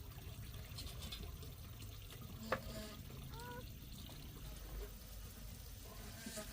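Water trickling and pouring, with a sharp click about two and a half seconds in and a brief squeak just after.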